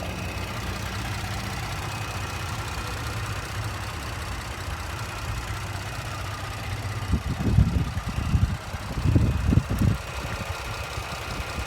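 A Ford 3.5 L EcoBoost twin-turbo V6 idling steadily in a 2016 F-150 with the hood open. A few irregular low thumps come about seven to ten seconds in.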